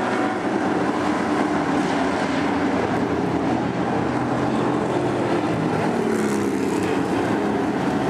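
Engines of racing trucks running at speed: a continuous mix of several engine pitches that rise and fall slightly.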